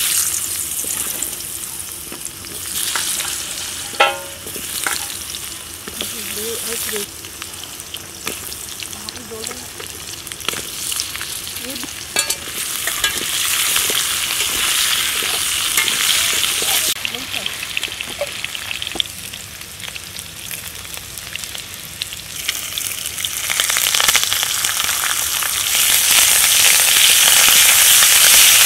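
Raw mango slices sizzling in hot mustard oil in a metal kadai, stirred and scraped with a metal spatula. The sizzling grows louder near the end.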